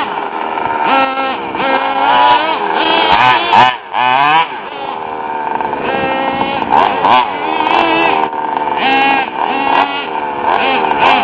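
Nitro RC truck's small glow-fuel engine running loud and revving up and down over and over as the throttle is worked, with a brief drop in level about four seconds in.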